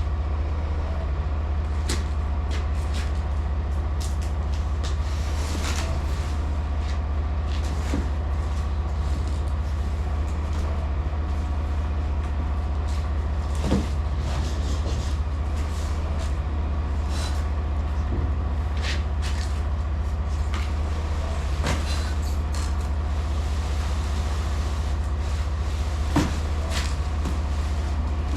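Semi truck's diesel engine idling with a steady low hum. Scattered clicks and knocks over it, the sharpest about halfway through and again near the end.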